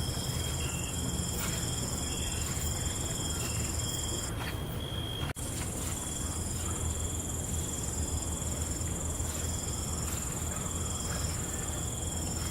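Night chorus of crickets chirring in a steady high trill over a low, even rumble, with a brief dropout in the sound about five seconds in.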